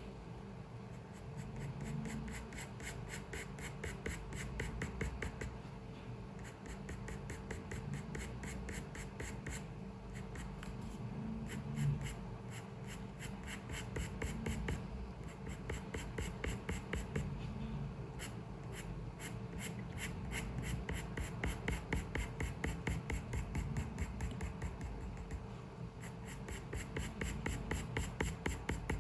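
Drawing tool scratching on paper in runs of rapid, repeated short strokes, broken by brief pauses, over a faint steady room hum.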